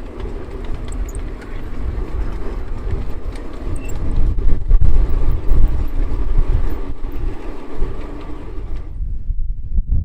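Miniature electric locomotive running along the track with a steady motor whine, under heavy wind rumble on the microphone. The whine stops about nine seconds in.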